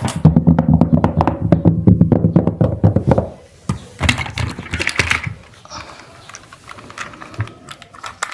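Rapid clatter and clicking of small hard objects, with a low hum under it for the first three seconds, then lighter scattered clicks.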